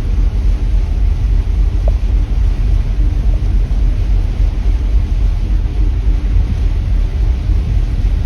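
Steady low rumble of wind buffeting the microphone on a tanker at sea, with ship noise underneath.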